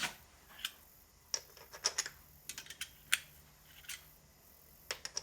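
Irregular light clicks and clinks of hand tools being tried on the bolts of a small trolley wheel's split rim, some in quick little clusters.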